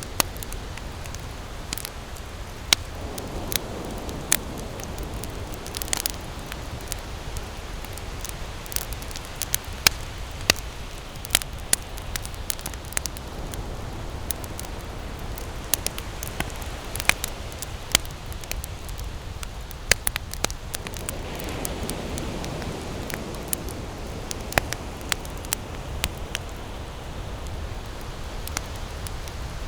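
Wood campfire crackling, with sharp, irregular pops and snaps over a steady low rumble.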